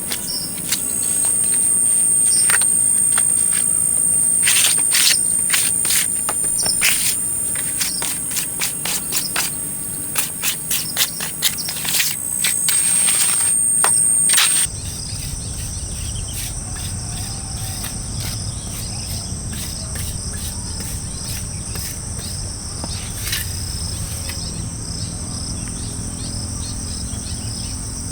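Insects droning steadily in a high, continuous chirr. Through the first half it is punctuated by a string of sharp taps and knocks. About halfway through, the background changes to a different, steadier insect drone over a low hum.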